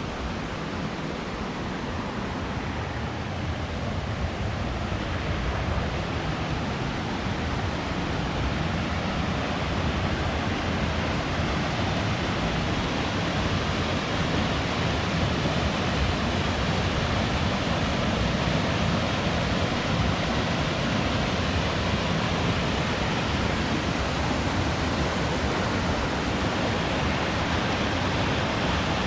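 Steady rush of falling water from a waterfall, gradually getting louder.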